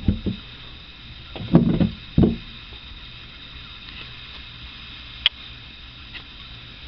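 A few dull thumps and knocks, one near the start and a cluster about one and a half to two and a half seconds in, then a single sharp click about five seconds in, over a steady low hiss.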